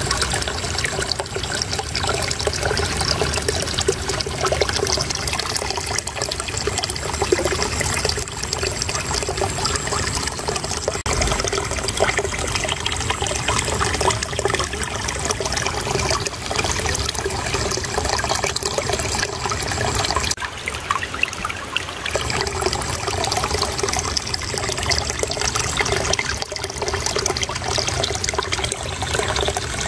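Flowing water babbling and trickling steadily, a continuous splashing rush with no pauses.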